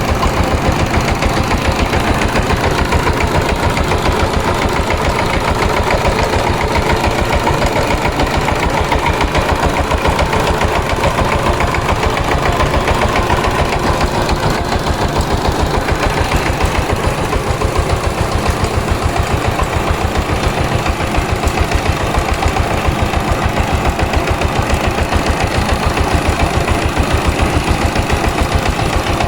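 Power tiller's single-cylinder diesel engine running steadily, with a fast, even beat of firing strokes.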